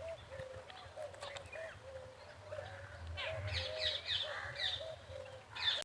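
A flock of birds calling: a steady run of short, repeated low calls, with higher chirps joining in during the second half and a louder call near the end.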